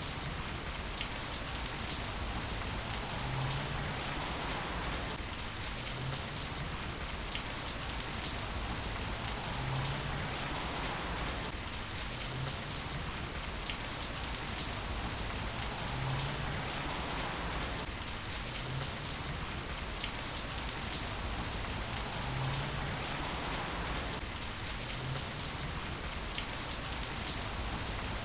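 Heavy rain falling steadily, with sharp single ticks of drops now and then.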